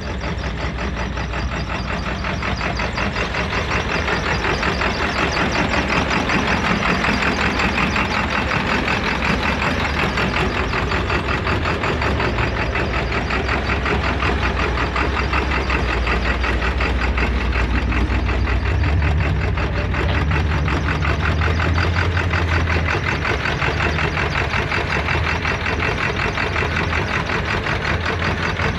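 A truck engine running steadily, with a fast, even pulsing over a low rumble.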